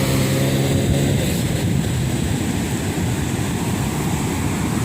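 Sea waves surging onto a sandy beach: a loud, steady rush mixed with heavy wind rumble on the microphone.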